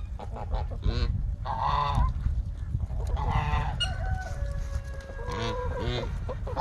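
Domestic geese honking: several separate calls a second or two apart.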